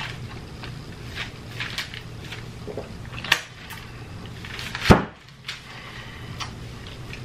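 Close-miked eating of a Fritos-topped sandwich: chewing with crunching and wet mouth clicks over a low steady hum, and two sharper knocks about three and five seconds in.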